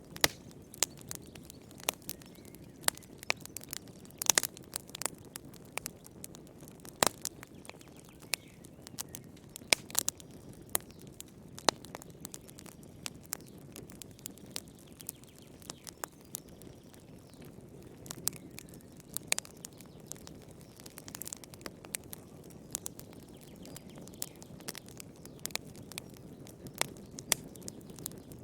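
Wood fire burning in a fireplace: irregular sharp pops and snaps of crackling wood over a soft, steady low rush of the flames.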